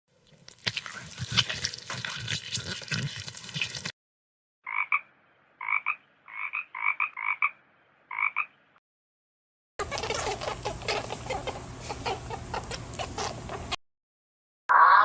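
Clips of animal calls one after another with silences between: a rough, noisy call sequence, then a run of about seven short, evenly pitched calls, then another rough noisy stretch over a steady low hum.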